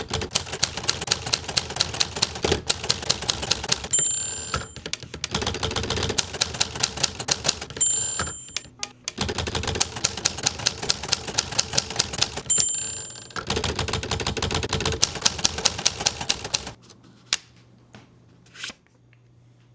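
Manual typewriter typing in fast runs of key strikes, with the margin bell dinging three times and a short break in the typing after each ding. The typing stops near the end, leaving a few stray clicks.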